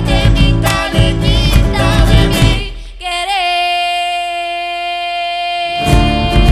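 Argentine folk band playing live: singing over strummed acoustic guitars, bass and percussion. About three seconds in, the band stops and a single voice holds one long note, and the guitars and percussion come back in near the end.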